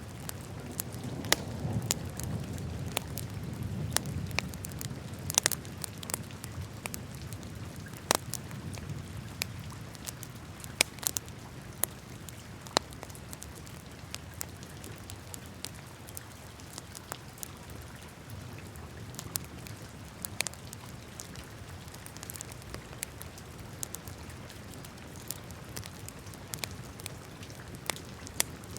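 Wood fire burning in a fireplace, crackling with irregular sharp pops over a low rumble of flames that is strongest in the first few seconds.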